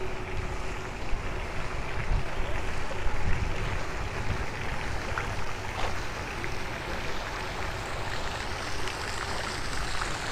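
Steady rushing outdoor background noise with a heavy low rumble throughout.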